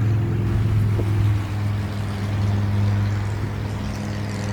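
Low, steady drone of a large motor-vehicle engine running nearby, a constant hum with a slight swell in loudness during the first second or so.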